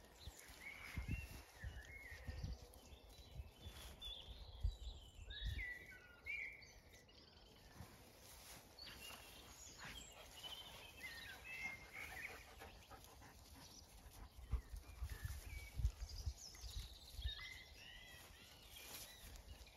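Faint outdoor birdsong: scattered chirps and short warbled phrases coming in several clusters, over low dull thumps and rustles.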